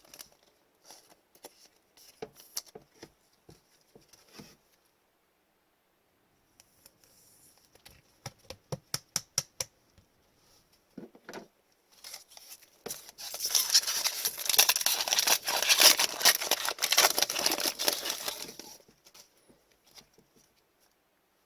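Trading cards and card-pack packaging being handled: scattered light clicks and a quick run of about ten sharp card flicks. About halfway through come several seconds of loud crinkling and tearing as a pack wrapper is opened.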